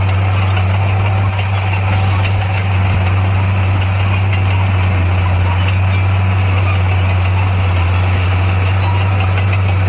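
Heavy diesel engine of construction machinery running steadily, a deep constant drone with no revving.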